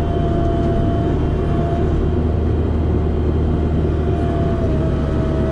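Small demolition machine's engine running steadily under a constant whine, the note shifting slightly about four and a half seconds in.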